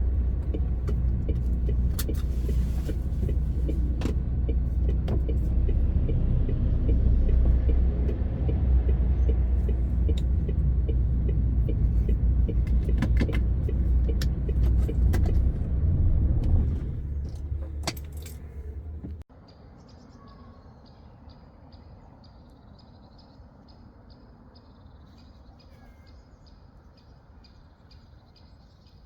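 Diesel engine of a MAN TGX 18.520 truck heard from inside the cab as a strong low rumble, with sharp rattles and clicks now and then. About 17 seconds in it dies down, and about two seconds later it cuts off abruptly, like an engine being switched off, leaving only a faint steady background.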